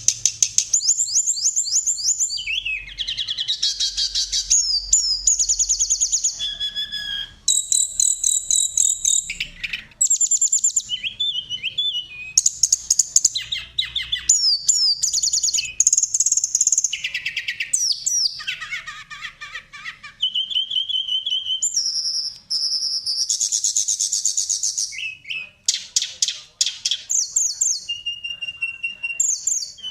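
Songbirds of several kinds singing one after another in quick, changing phrases: high chattering runs, trills and short steady whistled notes. It is a mixed 'masteran' song recording of the kind played to cage birds to teach them song and set them singing.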